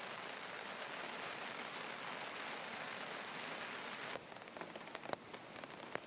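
Steady hiss of rain falling, which cuts down sharply about four seconds in to lighter, scattered drips.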